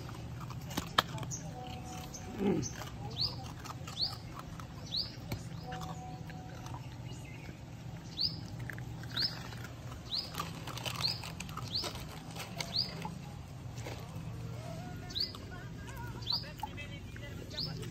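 A small bird chirping over and over: short, high chirps about one a second, over a steady low hum, with a few sharp clicks.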